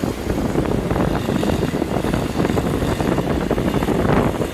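Ferry's engines running, a steady low rumble.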